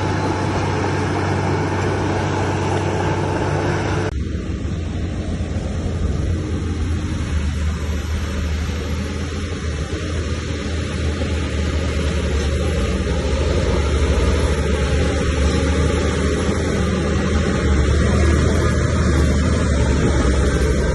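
Heavy diesel earthmoving machinery running steadily with a low rumble. The sound changes abruptly about four seconds in to a similar steady machine sound.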